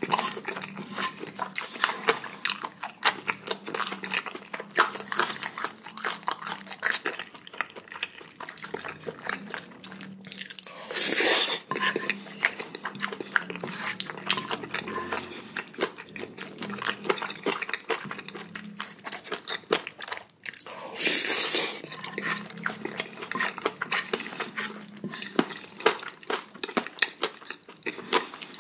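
Close-miked chewing and wet mouth sounds of a person eating spicy noodles and chicken, with a wooden spoon scraping and tapping on a ceramic plate. Twice, about 11 and 21 seconds in, a louder noisy rush lasts about a second.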